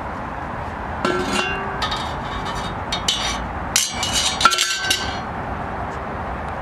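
Metal cookware and stove parts being handled, a run of clanks and knocks with short metallic ringing, loudest about four and a half seconds in, over a steady background hiss.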